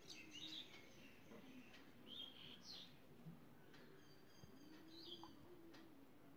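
Faint chirping of small birds: a few short, high calls scattered through, over near silence.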